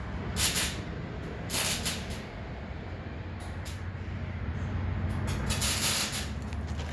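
Short bursts of air hiss, three or four of them, over a steady low hum of shop machinery.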